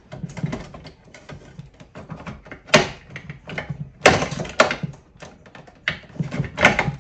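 Knocks, clunks and scraping as a replacement blower fan motor is forced into its mount inside a mini-split heat pump's air handler, with about five sharp knocks among the rattling.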